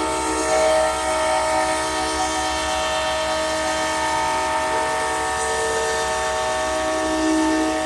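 Canadian Pacific Holiday Train passing: a steady low rumble with a regular beat, under several sustained tones.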